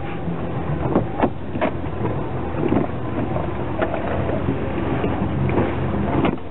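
Off-road 4x4 engine running steadily, heard from inside a vehicle's cabin, with several sharp knocks scattered through it.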